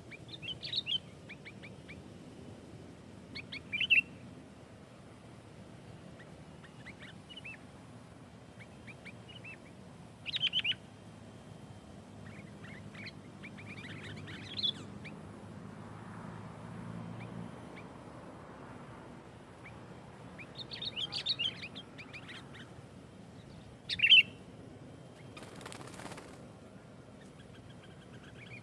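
Sooty-headed bulbul calling in short bursts of bright, chattering chirps, a few seconds apart.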